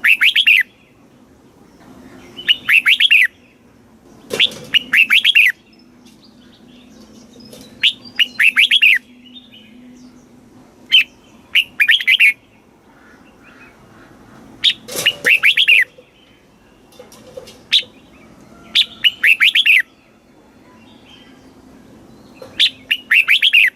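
Red-whiskered bulbul singing: short bright phrases of a few quick notes, about nine of them, repeated every two to three seconds.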